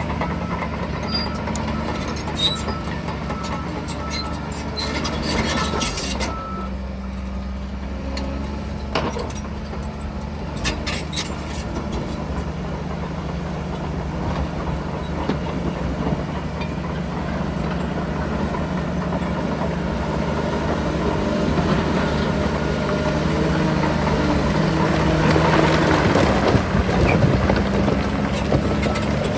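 Heavy diesel construction machinery running steadily, with a reversing alarm beeping over it for the first several seconds. Near the end the noise grows louder and rougher.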